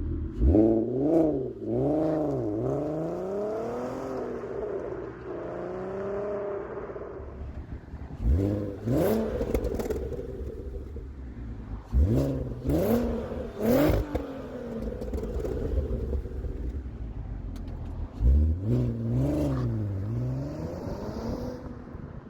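VW Golf R32's 3.2-litre VR6 engine through a Milltek resonated 2.5-inch cat-back exhaust, revved in four bursts of quick blips and settling back to idle between them.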